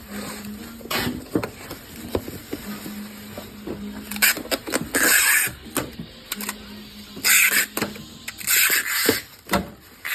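Packing work: scattered knocks and clatter with three short bursts of harsh noise a few seconds in, over a faint steady hum.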